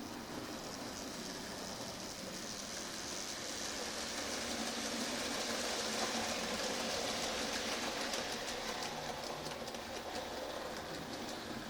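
Freight train hauled by a C11 steam locomotive running past, a steady rumble and hiss that grows to its loudest about six seconds in, with rapid clicking from the wheels on the rails in the second half.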